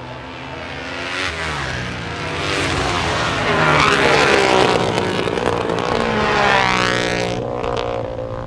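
Several flat track racing motorcycles passing at speed, their engines getting louder to a peak about four seconds in and then fading away with a falling pitch.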